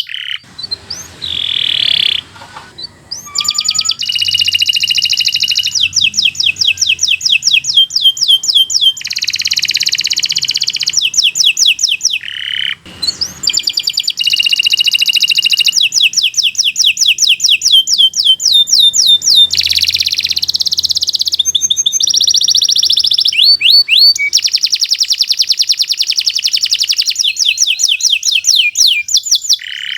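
Domestic canary singing a long, continuous song made of fast trills and rapid runs of repeated high notes, one phrase changing into the next, with only brief pauses.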